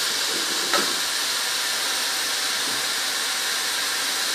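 Carrots and raisins frying in caramel in a pot: a steady sizzle, with one light knock about a second in.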